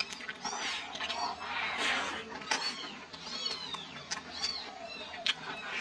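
A person chewing food close to the microphone: a quick run of wet smacking and clicking mouth sounds, with a brief louder, noisier stretch of chewing about two seconds in.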